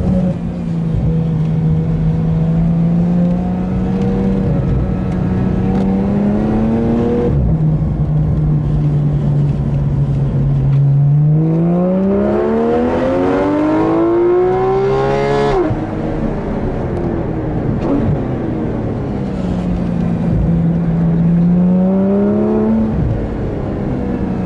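Porsche 911 GT3's naturally aspirated flat-six engine driven hard on track, heard from inside the cabin. The engine note repeatedly climbs and then drops abruptly, about seven, fifteen and twenty-three seconds in, with the longest climb to high revs just before the fifteen-second drop.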